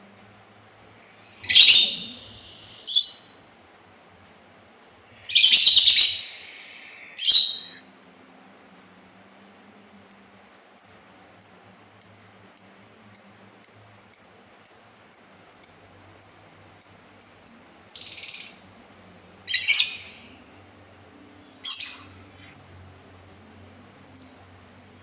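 A labet sultan songbird calling: several loud, sharp, high-pitched calls, then a run of short chirps at about two a second that quicken, then more single calls.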